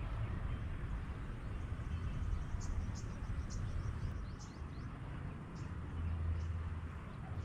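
Wind buffeting the microphone in a low, uneven rumble. Over it comes a run of short, high bird chirps a few seconds in.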